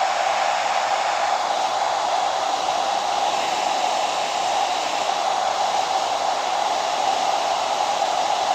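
Hair dryer running steadily: an even rush of blown air with a constant hum.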